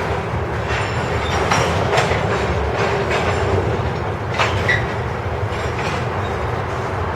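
Norfolk Southern grain train's freight cars rolling past: a steady rumble of steel wheels on rail, with sharp clicks as the wheels cross rail joints and a short squeal a little past the middle.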